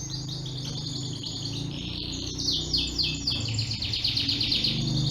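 Domestic canary singing a fast, rolling song: rapid trills of repeated high notes, with a run of descending sweeping notes about halfway through, over a low steady hum.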